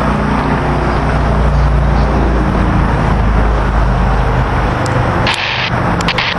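Amtrak passenger train hauled by an ACS-64 electric locomotive passing close by: a heavy, steady low rumble and drone. About five seconds in it gives way to a harsher rushing hiss with a few sharp clicks.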